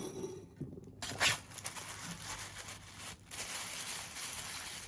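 Small cardboard boxes and packaging being handled as handmade wax candles are packed. There is a short scrape about a second in, then a steady rustle.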